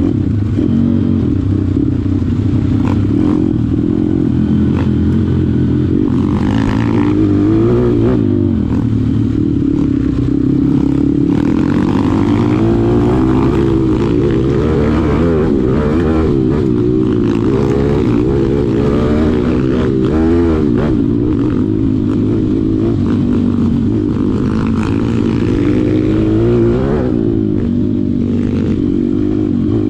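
Malcor XM 160 pit bike's single-cylinder engine being ridden hard, the revs rising and falling again and again as the throttle is opened and closed.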